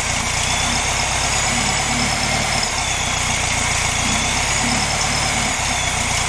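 1967 VW Beetle's air-cooled flat-four engine idling steadily.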